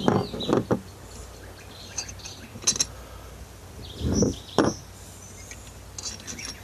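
Short metallic clinks and knocks as head bolts are pulled from a two-stroke dirt bike's cylinder head and set down, with birds chirping in the background.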